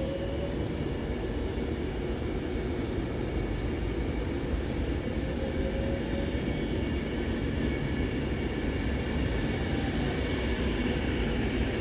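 Avanti West Coast passenger train pulling away from a station platform: a steady rumble of the train moving off, with a faint rising whine twice as it picks up speed.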